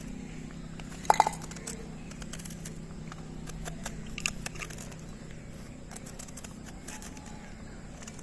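A knife cutting raw bitter gourd: scattered crisp clicks and crunches, with a sharper cluster about a second in and another just after four seconds. A low steady hum underneath fades out about halfway.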